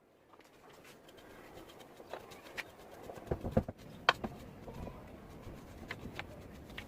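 Irregular light clicks and knocks, with a few louder knocks about three to four seconds in.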